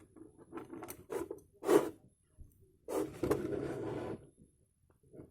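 A large plastic bottle being handled: several short clicks and knocks, then a rough scrape about three seconds in that lasts about a second.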